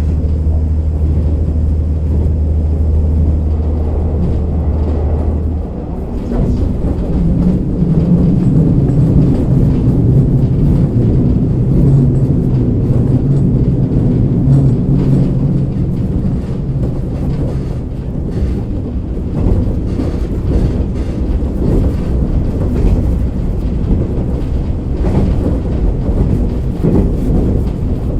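KiHa 47 diesel-hydraulic railcar running, heard from inside the car and muffled. A steady low hum gives way about six seconds in to a higher engine note that rises and wavers for about ten seconds, over continuous running rumble.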